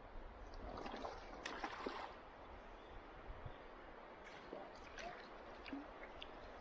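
Water splashing and gurgling around a kayak on a river, with a cluster of louder splashes about a second in and a few more near the middle.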